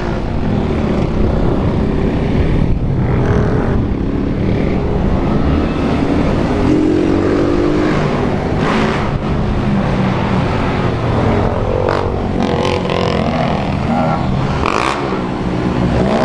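Motorcycle engines of a large group of small road bikes running and revving up and down together, over a steady rushing noise.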